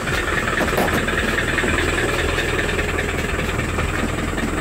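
A four-wheel drive's engine running steadily as the vehicle drives along a dirt track.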